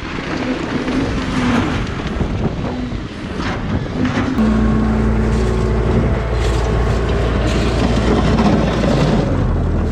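Engine of heavy construction machinery running, with wind on the microphone; about four seconds in, the engine note jumps to a louder, steady low drone and holds.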